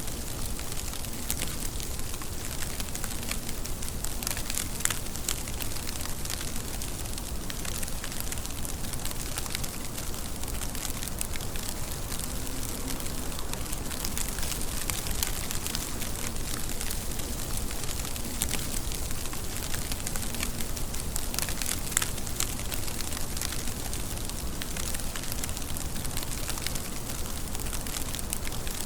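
Steady rain falling: an even hiss dotted with many sharp clicks of individual drops.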